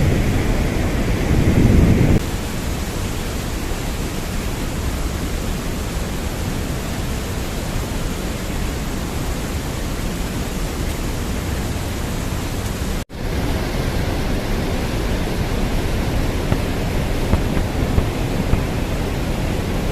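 Steady rushing noise of river water, with a low wind rumble on the microphone for the first two seconds. There is a brief dropout about 13 seconds in.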